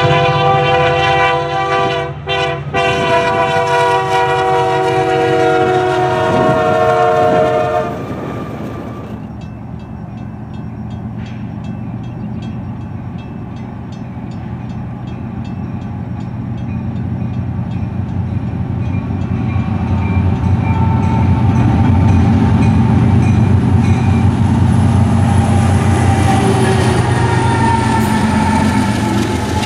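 A locomotive's multi-chime air horn sounds one long blast, broken twice for an instant, until about eight seconds in. Then a grade-crossing bell rings steadily while the low rumble of approaching diesel locomotives, a CP SD60 and a CREX ES44AC, builds and grows loud as they pass.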